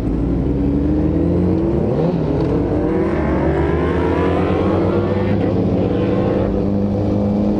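Superbike's inline-four engine pulling under acceleration: the engine note climbs gradually from about two seconds in, then holds steady near the end.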